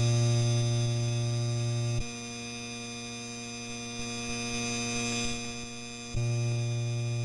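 Aloha Breeze ceiling fan's motor humming steadily. The hum cuts out with a click about two seconds in and comes back with another click about four seconds later as the fan's speed switch is worked.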